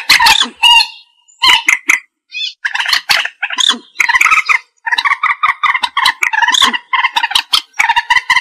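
Common moorhen calling: loud, harsh clucking notes in fast runs, broken by short pauses.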